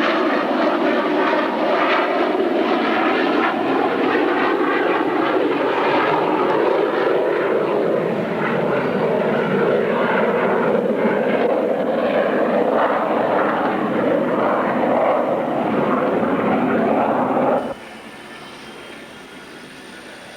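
A fixed-wing airplane flying over, its engines a loud steady noise with faint tones that slowly fall in pitch. Near the end the sound cuts off abruptly, giving way to much quieter background noise with a thin, high, steady whine.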